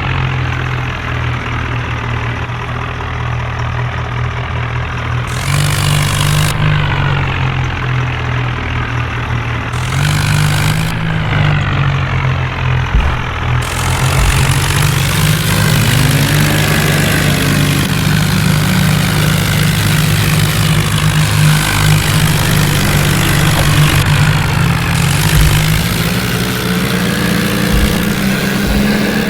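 Tractor diesel engine running loud and steady, its pitch rising several times as it is revved up under load, as when a tractor stuck in mud strains to pull free.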